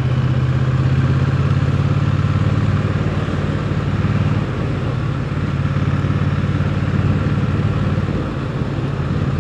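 Triumph Bonneville T100's parallel-twin engine running steadily under way, heard from on the motorcycle, with a rush of wind and road noise.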